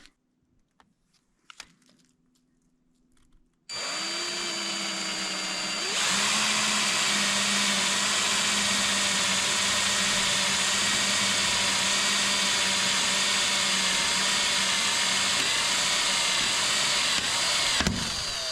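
Power drill pre-drilling a hole through a steel roofing panel: the motor starts about four seconds in, gets louder about two seconds later as the bit bites into the steel, and runs with a steady high whine. Near the end the motor winds down as the bit breaks through.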